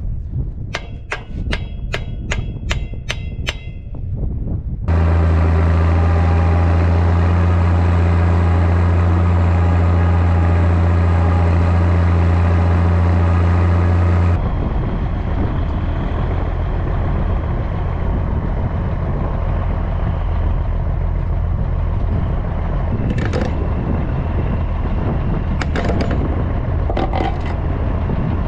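Zetor ZTS 16145 tractor's diesel engine running steadily under load while pulling a deep-working cultivator. Its sound changes abruptly about five seconds in to a loud, steady low drone, then about fourteen seconds in to a rougher running sound. Regular sharp ticks, about two or three a second, come early on, and a few clicks come near the end.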